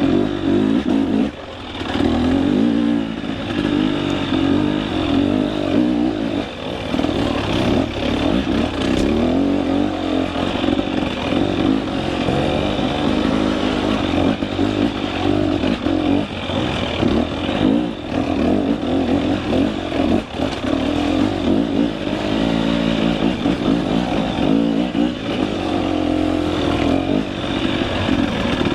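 Two-stroke enduro dirt bike engine revving hard and varying with the throttle on a steep, rough trail climb. The throttle is chopped briefly about a second and a half in.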